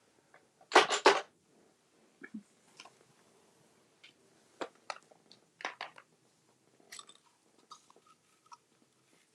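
Paper and papercraft supplies being handled on a work surface: a loud crisp cluster of three strokes about a second in, then scattered light clicks and taps.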